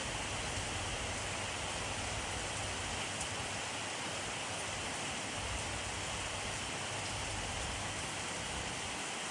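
Steady rainfall, an even hiss of rain on a surface with scattered faint drop ticks.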